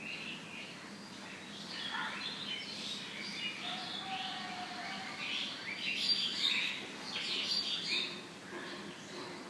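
Several small birds chirping and trilling in a morning chorus, with overlapping short, high calls that grow busiest a little past the middle.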